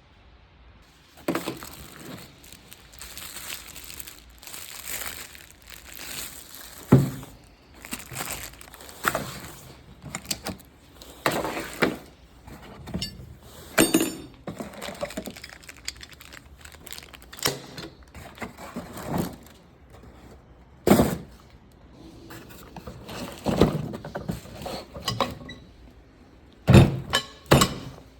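Irregular knocks, clanks and clinks of hand tools and metal hardware being handled, with several sharper bangs.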